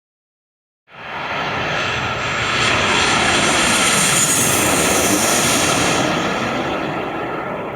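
Boeing 737-800 with CFM56 turbofan jet engines passing close by. The roar cuts in suddenly about a second in, swells to its loudest midway with a high whine falling in pitch, then starts to fade.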